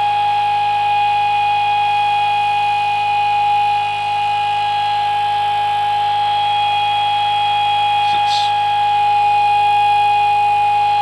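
Home-built pulse motor running steadily at about 3075 rpm on 24 volts under full load, its four alternator coils shorted out, giving a constant pitched whine over a low hum.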